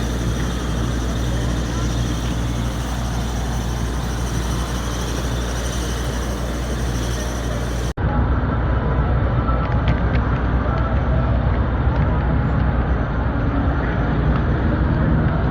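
Steady city street noise: traffic rumble and a general hum of the street, changing abruptly to a duller stretch of traffic noise about eight seconds in.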